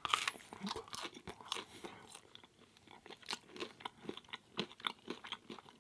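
Close-miked chewing of a mouthful of vegan pizza, with many irregular crisp crunches of the crust.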